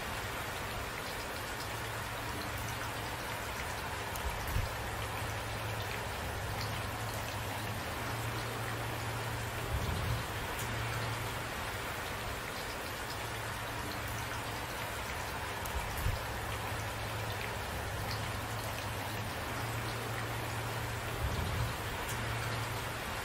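Steady rain falling on a surface, with a few louder heavy drops thudding about every five or six seconds.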